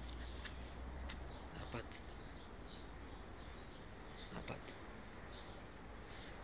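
Faint chirping of birds in the background, many short high calls scattered throughout, with a few soft clicks.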